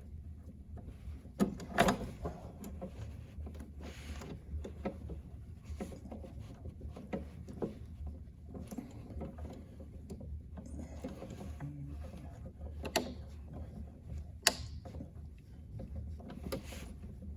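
Hands fitting wire spade connectors onto a compressor starter relay: scattered small clicks and knocks of plastic and metal being handled, the loudest about two seconds in and two more near the end, over a low steady hum.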